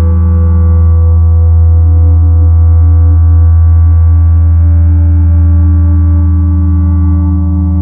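Ambient electronic drone from analog synthesizers and sine-wave generators: a loud, steady low tone with several held tones layered above it, one of them shifting slightly in pitch about two seconds in.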